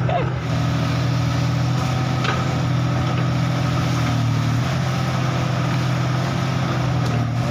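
Komatsu PC200-5 excavator's diesel engine running steadily, a low, even hum.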